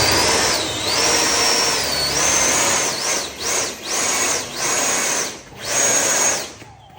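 Small electric motor on an RC F-14 Tomcat model whining, its pitch dipping and rising over about three seconds, then starting and stopping in a run of separate bursts, the last few about a second each.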